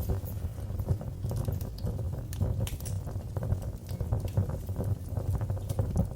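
Fireplace fire crackling: a steady low rumble of flames with many small, irregular pops and snaps.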